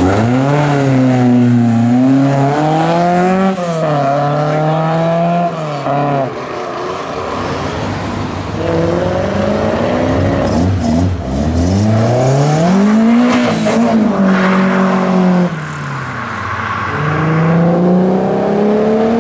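A car engine revving hard, its pitch climbing and dropping several times, with a long climb as it pulls away about eleven seconds in and another rise near the end.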